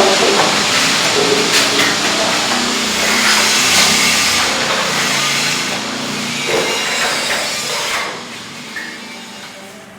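Construction-site work noise: a steady din with occasional knocks, dropping off about eight seconds in.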